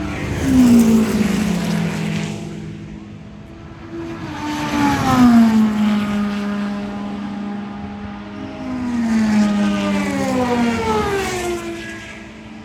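IMSA sports racing cars passing at full speed, one after another, each engine note dropping in pitch as the car goes by. There are loud pass-bys about a second in, about five seconds in, and around ten seconds in, the last one two cars close together.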